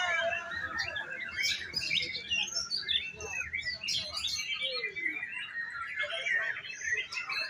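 Several caged competition songbirds singing at once, a dense jumble of quick overlapping chirps and trills.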